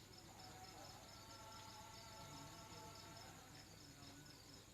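Faint insect chirping, a high-pitched pulse repeating steadily about three to four times a second. A faint pitched call or voice sounds through the middle.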